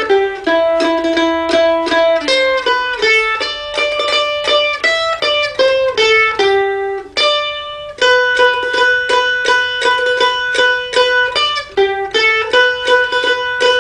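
Music: a melody played on a plucked string instrument, each note picked rapidly over and over so that it seems held, with a brief dip a little past the middle.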